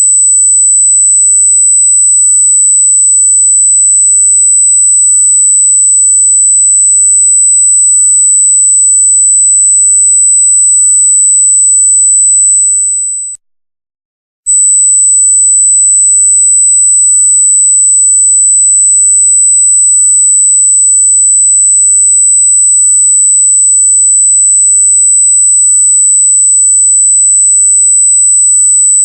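A loud, piercing electronic tone, a single pure sine wave near 8 kHz held at one pitch. About thirteen seconds in it fades out, stops for about a second, then comes back abruptly at full level.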